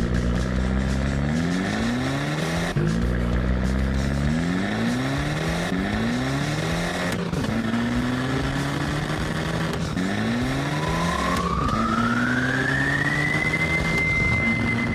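Monster truck engine sound effect revving up again and again, each rev climbing in pitch. From about ten seconds in, a high tone glides upward and then holds steady until near the end.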